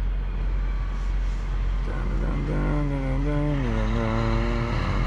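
Steady low rumble of an idling vehicle engine. About halfway through, a voice holds one drawn-out, wavering sound for about two seconds.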